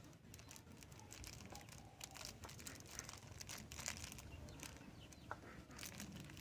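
Faint crinkling and rustling of a packet of powdered pesticide being handled as a dose is measured out, in many short irregular crackles.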